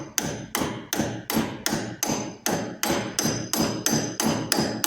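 Hammer blows on metal, striking steadily about three times a second with a short metallic ring after each, driving the knotter cogwheel onto its shaft in a Massey Ferguson 224 hay baler until it sits flush. The blows stop near the end.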